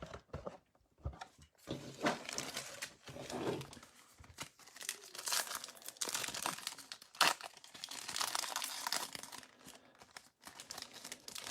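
Plastic wrapper of a Topps trading card pack being torn open and crinkled by hand, an irregular crackling with sharp snaps that stops shortly before the end.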